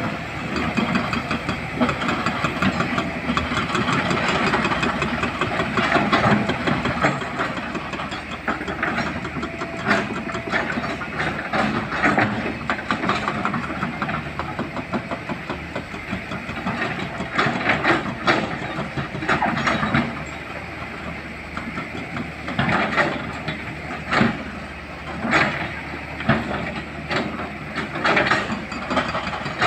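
Excavator's diesel engine running under load, with irregular clattering and scraping of rock as the machine works stone.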